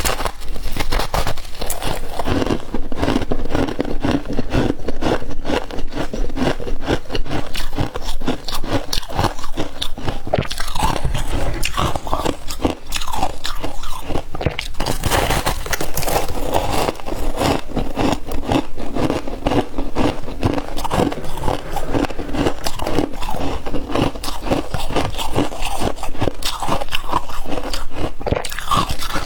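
Crispy humidifier ice being bitten and chewed close to the microphone: dense, continuous crunching and crackling.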